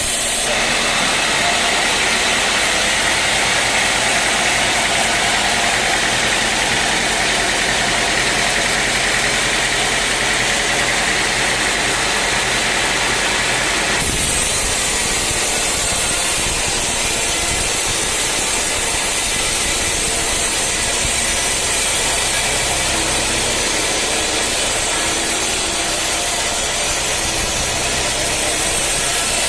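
Sawmill machinery running steadily, a loud, dense mechanical noise of engine and saw. The sound changes abruptly about halfway through.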